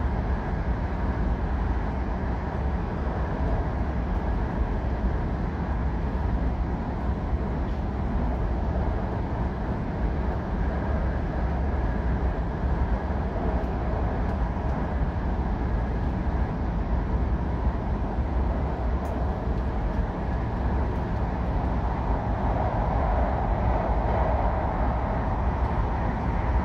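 Steady cabin running noise of an E5 series Shinkansen car travelling through the Seikan Tunnel: a constant deep rumble with a rushing hiss over it, swelling slightly near the end.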